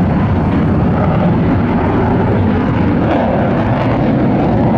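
Fighter jet engine noise during an air show demonstration flight: a loud, steady rumble with no clear rise or fall.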